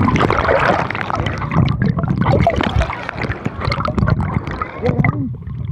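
Seawater sloshing and gurgling right at the microphone, with irregular splashes and bubbly clicks.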